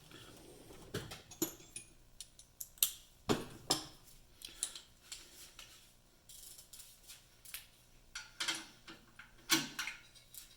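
Irregular metallic clicks and clinks of a hand wrench and socket working on the oil pan bolts, tightened by feel rather than with a torque wrench.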